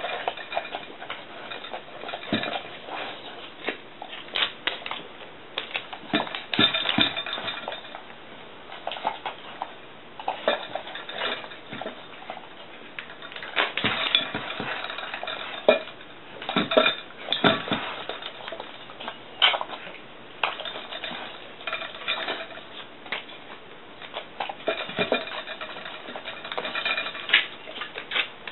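Bull terrier eating natto rice from a dish, the dish clinking and knocking irregularly as it eats.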